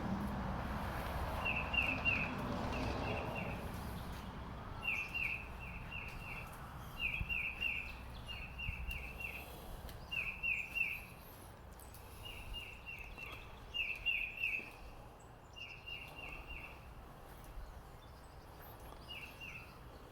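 A bird calling over and over in quick groups of three or four short, high, downward-slurred chirps, with a low rumble fading away during the first few seconds.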